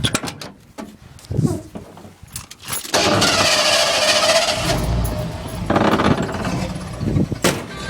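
A few clicks and knocks, then about three seconds in the Ford F-250's engine is started and catches, running on loudly. It is running fast with the carburetor's choke stuck on, holding it at a high idle.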